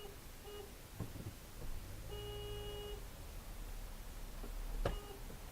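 A car horn sounding in honks: a short blip, a honk of about a second, then another short blip near the end. A sharp knock comes about a second in, and a louder one near the end.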